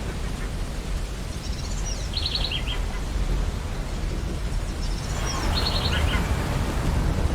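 Steady wash of ocean surf, with a bird calling twice over it, each call a quick run of high chirps, about two seconds in and again about five seconds in.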